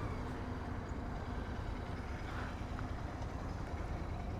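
Motorcycle engine running steadily at low revs, with a low rumble and city traffic noise around it.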